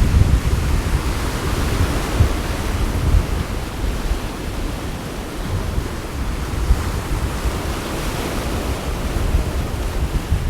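Sea waves washing against the shore, swelling twice, with wind gusting on the microphone as a rumble beneath.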